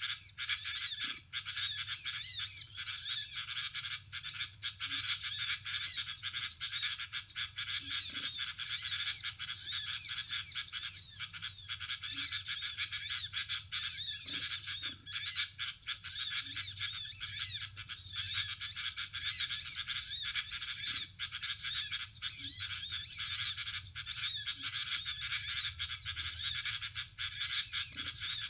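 Small birds chirping rapidly and without a break, a dense overlapping chatter of quick high notes.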